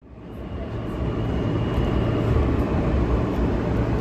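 Steady low rumble of a New York City subway train, fading in over the first second, with a faint high whine in the first half.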